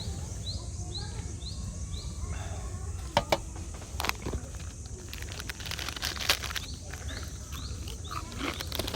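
Outdoor ambience: a bird repeats short rising chirps, about two a second, first for a couple of seconds and again near the end. Under them runs a steady high buzz typical of cicadas in summer, and a few sharp knocks come around the middle.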